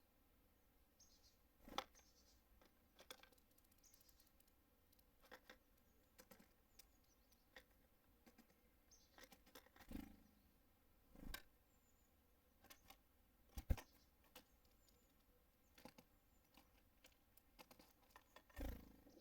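Small birds at a feeder: scattered sharp taps and knocks from landing and pecking, the loudest about two-thirds of the way through, with a few faint high chirps.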